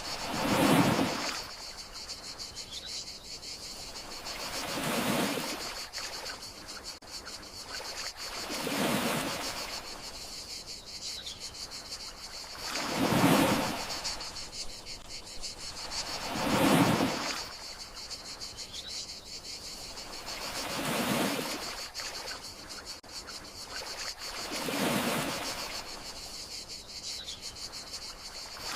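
Gentle sea waves washing ashore in slow swells about every four seconds, some louder than others, under a steady high chorus of crickets. A faint short rising note recurs about every eight seconds.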